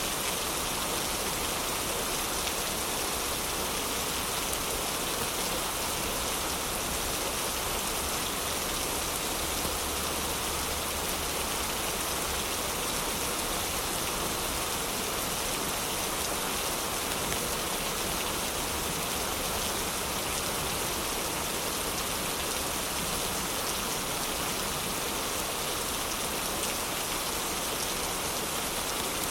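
Heavy rain falling steadily, an even hiss of many drops with no let-up or change.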